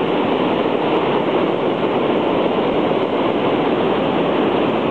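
Storm-surge waves breaking and washing in against the eroding dune and seawall, a loud, steady rush of surf.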